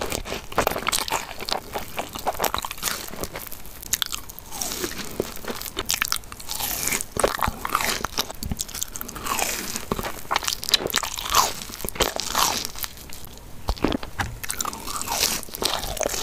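Biting into and chewing a fried cheese ball: irregular crunches of the fried crust and chewing sounds throughout.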